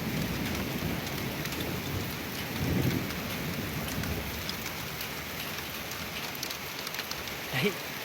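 Thunderstorm: steady rain falling, with low thunder rumbling that swells about three seconds in. A brief, louder sound comes just before the end.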